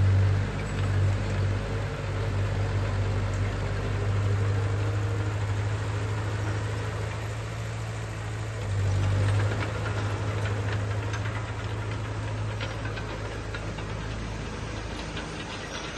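Heavy diesel engine of earthmoving equipment running, a steady low hum that swells louder about a second in, around four seconds in and again around nine seconds in, with faint scattered clicks in the second half.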